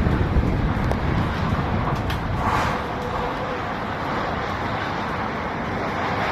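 Strong tornado wind blowing as a steady low rumble, with a few faint knocks.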